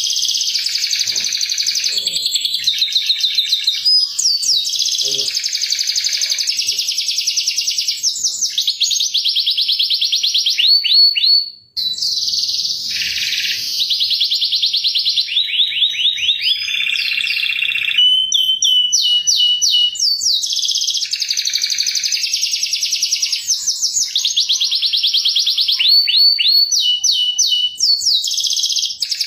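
Domestic canary singing a long, unbroken run of high-pitched song: fast trills of repeated notes mixed with gliding chirps. The song breaks off briefly about twelve seconds in.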